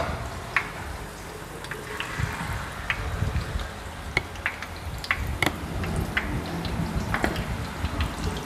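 Battered shrimp and salmon deep-frying in a pan of hot oil: a steady sizzle with sharp pops and crackles every fraction of a second.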